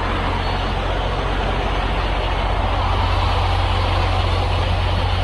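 A semi-truck's diesel engine running steadily, heard up close as an even low hum with a noisy rumble over it.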